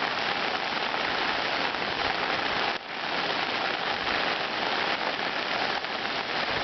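Steady hiss of heavy hurricane rain, mixed with the rush of a flooded stream that has overflowed its banks.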